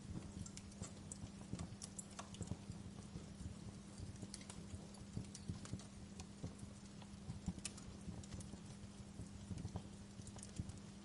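Fire in a fireplace crackling softly, with irregular small pops and snaps, a few of them sharper, over a steady low hum.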